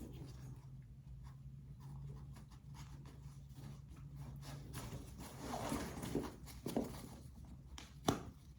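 Backpack straps and fabric rustling and scraping as they are handled and adjusted, louder about two-thirds through, with one sharp click near the end.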